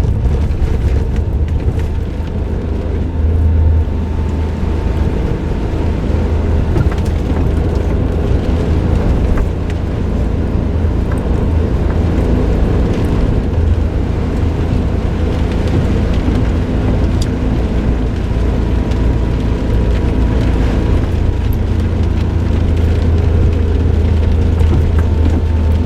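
Suzuki Jimny JB23W's small turbocharged three-cylinder engine and aftermarket muffler running steadily while the car is driven, a constant low drone mixed with tyre and road noise and occasional small knocks.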